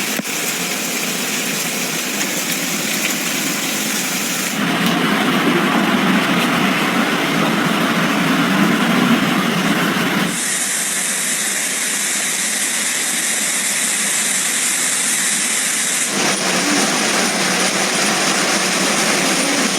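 Steady rushing hiss of a heavy rainstorm, its character changing abruptly about four and a half, ten and sixteen seconds in.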